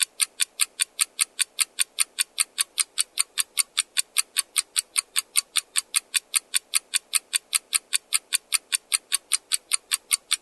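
Countdown-timer sound effect: a clock-like tick repeating evenly about four times a second, marking the time allowed to answer.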